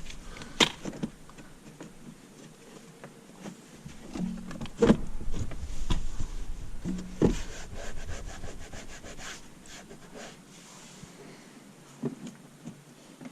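Plastic center-console trim of a car being slid and pushed back into place: rubbing and scraping, with a few sharp knocks about half a second in and again around five and seven seconds.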